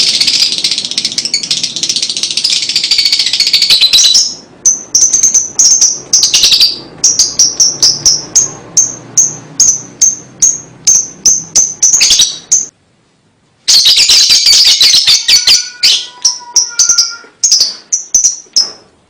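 Lovebird chattering: a dense, high, fast chatter for about four seconds, then a run of short high chirps at about two a second. It cuts to silence for about a second near the middle, then the chatter and chirps start again.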